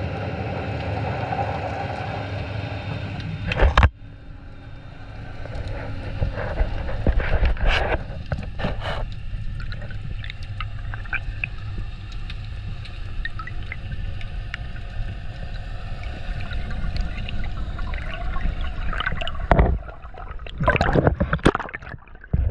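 Underwater recording: a steady motor drone, like a boat engine heard through the water, stops suddenly about four seconds in with a loud knock. Water noise with scattered clicks follows, and near the end comes a run of loud gurgling, bubbly splashes.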